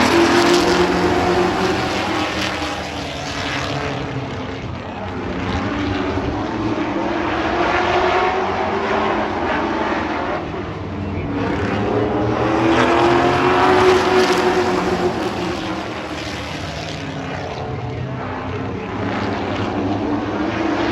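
Several race truck engines running around an oval track, their pitch rising and falling and the sound swelling and fading several times as the pack passes.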